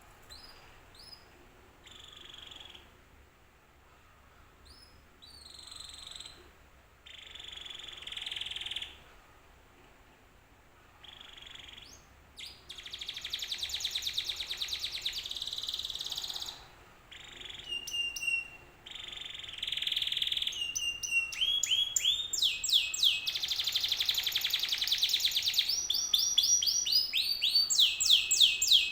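Domestic canary singing: scattered short chirps and rising whistles at first, building from about halfway into long, fast trills and rolls of rapidly repeated sweeping notes that grow louder toward the end.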